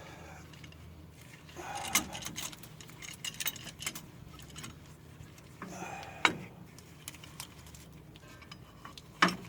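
Metal hand tools and brake hardware clinking and rattling as they are handled, in scattered sharp clinks and short clatters. The loudest come about two seconds in, about six seconds in, and near the end.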